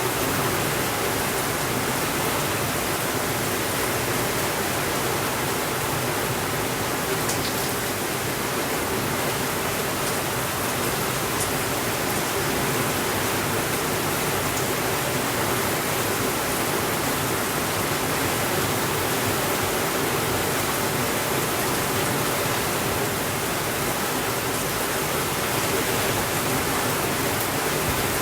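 Steady rainfall, a dense even hiss that does not change, with a couple of faint ticks about seven and eleven seconds in.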